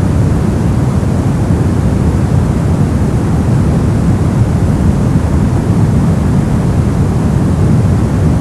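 Brown noise: a steady, deep rumbling hiss, strongest in the bass and fading toward the treble, with no change in level.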